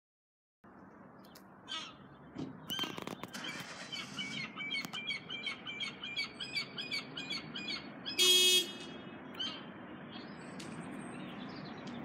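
Birds chirping in a quick repeated pattern over a steady low background rumble. About eight seconds in there is one loud, harsh half-second call, the loudest sound here.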